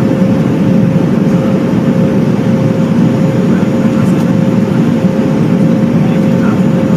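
Jet airliner cabin noise: a steady, loud drone of engines and airflow with a steady hum on top, heard from inside the passenger cabin.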